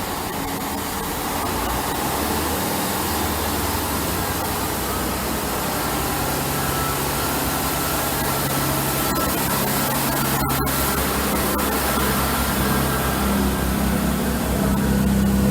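GWR Class 165 diesel multiple unit's underfloor diesel engines running with a steady low hum, growing louder near the end as the train pulls away. A couple of sharp clicks sound about ten seconds in.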